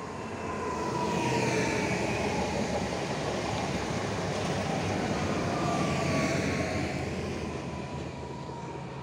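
ED78 electric multiple unit running by on the rails: rumbling wheels with an electric whine that slides down in pitch. It is loudest through the middle and fades near the end.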